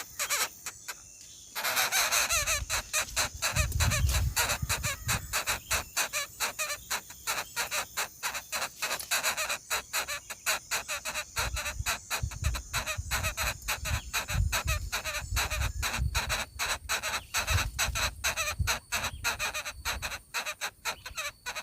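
Coucal calling in a long, fast run of short harsh clucking notes, about four a second, starting about a second and a half in, with occasional low thuds underneath.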